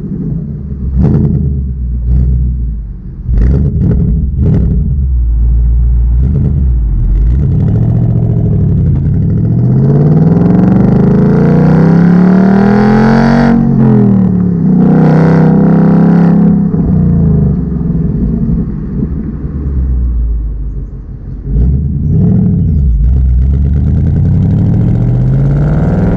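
2019 Ford Mustang GT's 5.0-litre V8 on its stock exhaust, driving and accelerating. The engine note climbs for several seconds, drops sharply at a gear change about halfway through, holds steady, then climbs again near the end.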